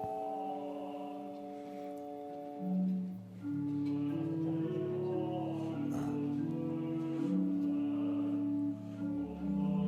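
Slow church music during Communion: long held notes and chords that change step by step, with a lower bass line coming in about three seconds in.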